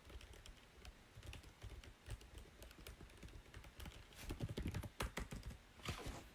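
Typing on a computer keyboard: a quick, irregular run of keystrokes, with a louder, longer stroke near the end before the typing stops.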